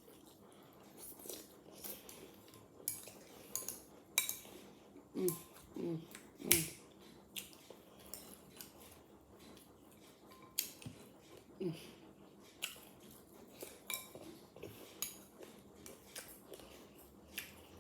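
A metal spoon clinking and scraping against a bowl of cereal, many separate clicks, some with a short ringing after them, between mouthfuls of chewing.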